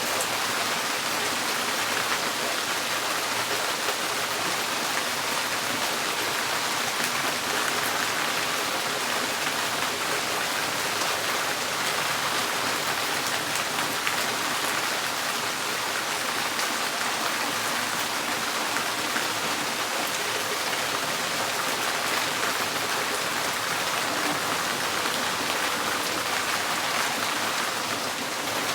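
Steady rain drumming on a tin porch roof, a dense even patter of drops with no let-up.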